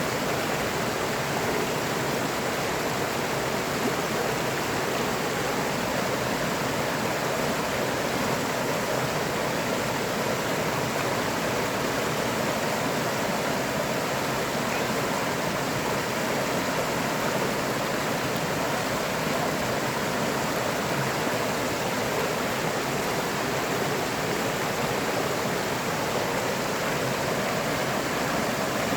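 A river or stream of rushing, flowing water, a steady even wash of sound without breaks.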